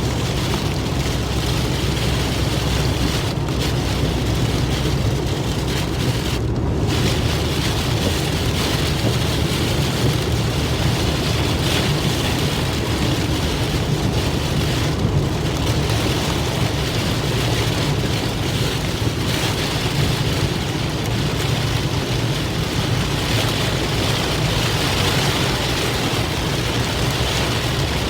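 Heavy thunderstorm downpour: a dense, steady hiss of pouring rain with a constant low rumble underneath.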